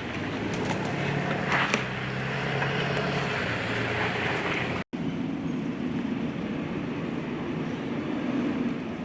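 A motor running steadily over outdoor noise. About five seconds in, the sound cuts out abruptly and picks up again as a different steady engine drone.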